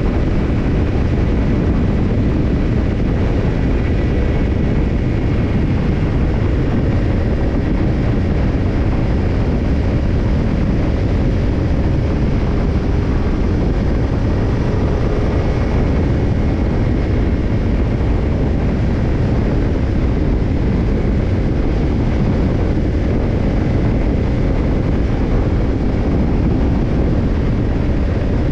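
Kawasaki Ninja 250 parallel-twin engine running through a BEET NASSERT Evolution Type II titanium slip-on muffler, holding a steady speed with no revving, mixed with wind and road noise.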